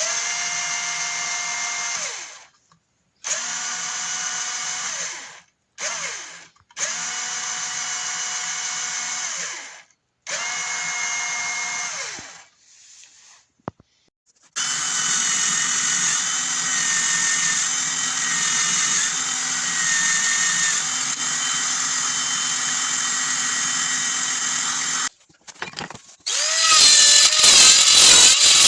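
Small electric drill motor running in short bursts, four runs of about two seconds, each winding down in pitch as it stops. It then runs continuously for about ten seconds, and near the end a louder, wavering, higher-pitched run follows.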